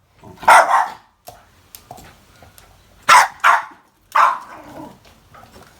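Dog barking excitedly in play: four loud barks, one near the start, two close together about three seconds in, and one a second later.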